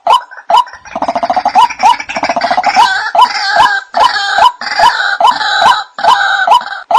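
White-breasted waterhen calls: a steady run of short repeated notes about two a second, joined about a second in by a fast chattering rattle and then harsher, fuller calls over the repeated notes, which run on alone again near the end.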